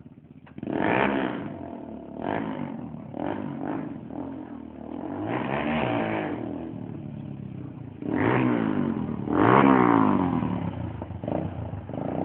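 Motorcycle engines revving in repeated bursts, the pitch climbing and falling with each twist of the throttle. The loudest burst comes about two thirds of the way in.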